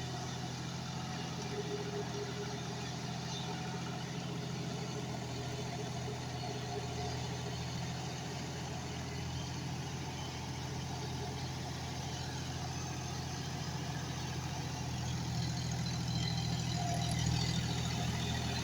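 John Deere 5105 tractor's three-cylinder diesel engine running steadily, growing slightly louder near the end.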